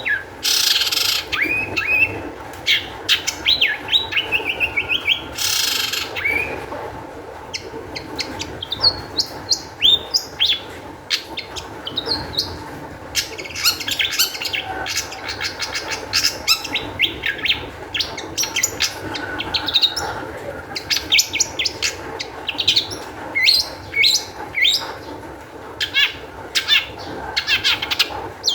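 Long-tailed shrike (cendet) singing in an agitated state: a fast, varied stream of short chirps, trills and quick gliding notes, with two harsh rasping calls near the start.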